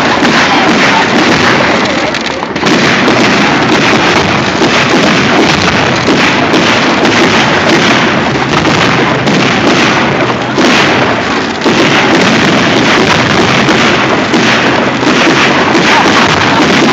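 A barrage of fireworks going off in quick succession: bursts and crackling pile up into a loud, nearly continuous racket, with short lulls about two seconds in and again near the middle.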